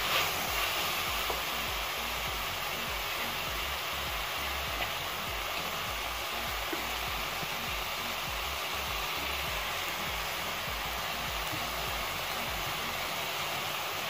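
Vegetables sizzling in a hot aluminium wok: a steady frying hiss.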